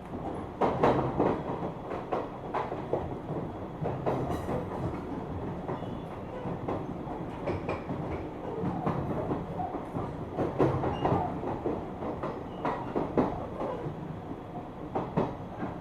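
JR East 455 series express-type electric train running, heard from inside a MoHa 455 motor car. The wheels clatter over rail joints in irregular clusters of sharp clicks above a steady rumble of running noise.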